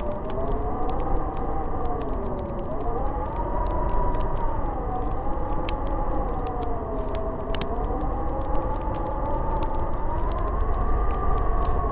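Snowstorm wind howling: a steady rush with a whistling tone that slowly rises and falls, and scattered faint crackles.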